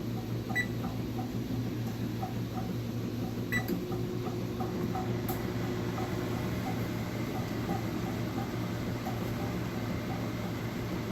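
Microwave oven keypad beeping twice as it is set, then the oven running with a steady hum while it heats a microwavable heat therapy bag.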